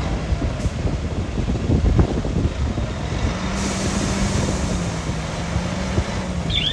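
Diesel engine of heavy earthmoving machinery running with a dense low rumble. There is a knock about two seconds in, and a steady engine note comes up about halfway through.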